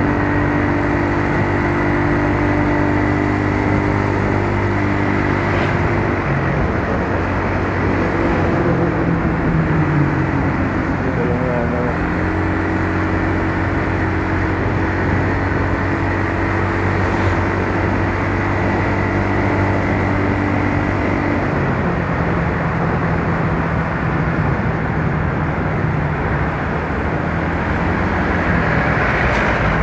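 Yamaha Mio Soul scooter's single-cylinder four-stroke engine running under way, its pitch shifting several times with speed, over steady wind and road noise.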